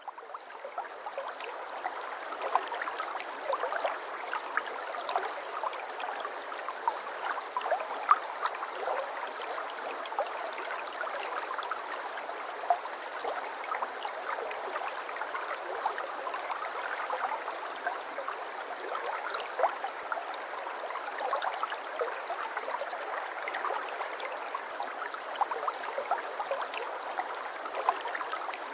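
Babbling brook: shallow water running over stones, a steady burbling rush full of small splashes and gurgles, fading in at the start and then holding steady.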